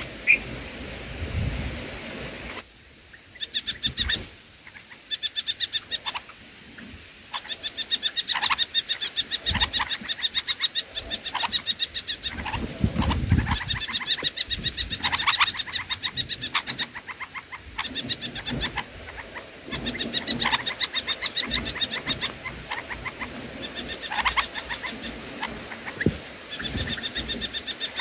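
A bird calling in repeated bursts of rapid, evenly spaced high notes, each burst lasting a second or two, with short pauses between bursts.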